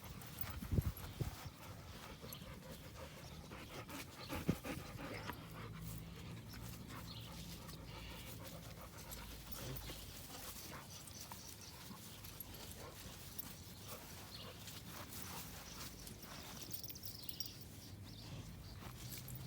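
Dog panting, with scattered faint clicks and rustles and a couple of louder knocks in the first few seconds.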